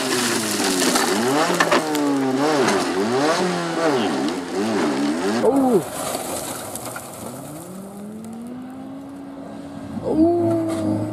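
Rally car engines revving hard on a gravel stage. For about the first six seconds the pitch rises and falls quickly again and again; then a single engine climbs steadily in pitch, and a second, higher engine note comes in near the end.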